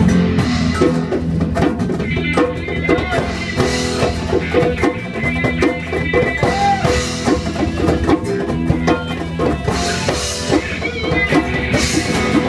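Live rock band playing a fast, hard song's instrumental intro, with electric guitar and drum kit kicking in all at once and running on loudly.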